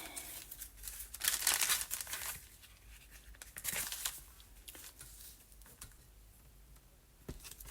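Paper crinkling and rustling as pieces of journal paper are handled, in short noisy bursts, the longest about a second in and another near the middle, then fainter handling with a single click near the end.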